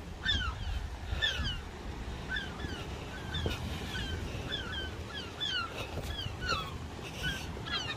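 Birds calling over and over, short downward-sliding calls about two a second, over a low rumble of wind on the microphone.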